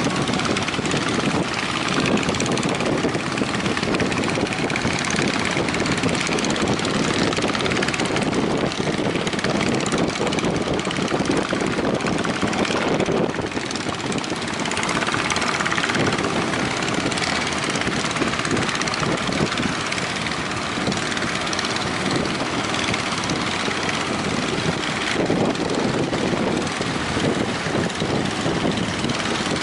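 Strong wind buffeting the microphone over the steady rush of breaking sea waves, with a brief lull about 13 seconds in.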